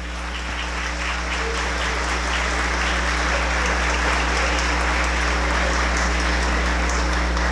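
A large audience applauding. The clapping swells over the first second or two, then holds steady.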